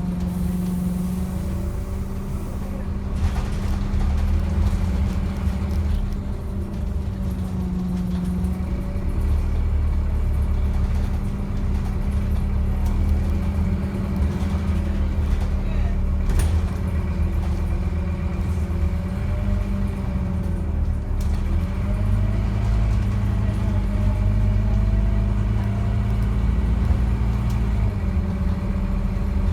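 Scania N230UD double-decker bus on the move, heard from on board: a steady engine drone over a low rumble, with a fainter whine that slowly rises and falls as the bus speeds up and slows down.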